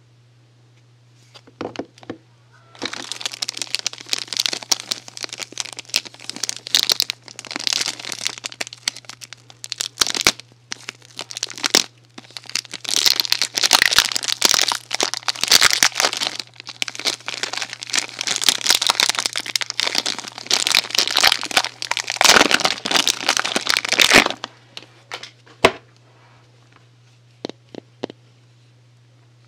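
Crinkling and crackling of soap packaging being handled and unwrapped, with many sharp crackles. It runs dense for about twenty seconds, then stops, leaving a few isolated clicks near the end.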